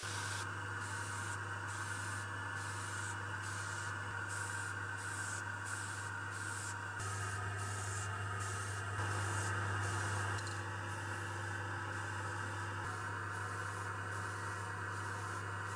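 Paint being sprayed: a steady hiss over a constant low hum, broken again and again by short pauses.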